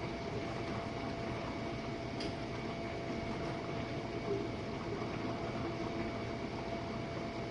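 Jenn-Air dishwasher running its Quick Wash cycle: a steady hum with an even hiss, and one faint tick about two seconds in.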